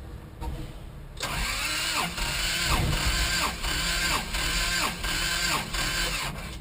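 Starter motor cranking the engine for about five seconds, its whine dipping in pitch in a steady rhythm of about one and a half beats a second as the engine turns over without firing.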